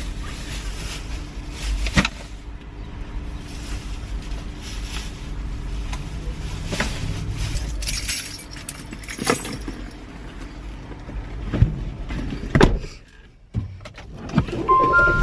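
Car and parking-lot noise with keys jangling and several sharp knocks and thuds, then a short drop in level near the end.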